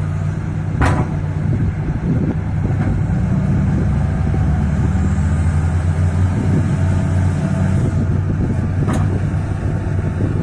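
Heavy truck engine running hard at steady revs, with a sharp knock about a second in and another near the end.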